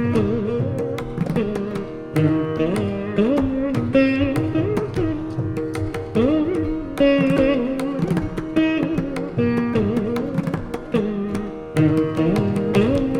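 Carnatic veena playing in raga Khamas: a stream of sharply plucked notes whose pitch bends and slides between them.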